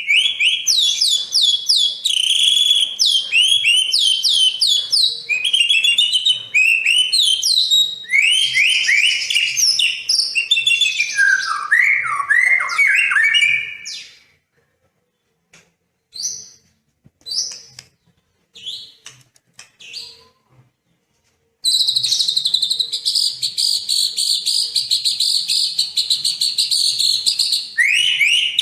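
Songbird song from a sekoci and white-rumped shama (murai batu) recording. Dense, rapid phrases of quick falling whistles and chirps come first, then scattered short calls with pauses, then a long, fast, buzzy trill from about two-thirds of the way in, which breaks back into varied song near the end.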